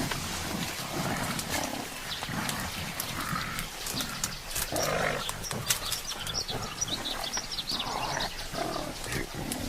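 Mountain gorillas making short, low calls, with scattered clicks and snaps of vegetation.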